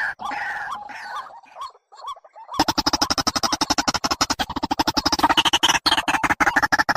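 Recorded bird calls used as a trapping lure: a few repeated calls fade out, and after a short gap a fast, even chattering of about ten pulses a second begins.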